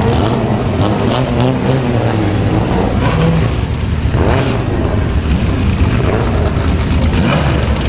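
Several vintage race car engines running together, their pitch rising and falling as they rev.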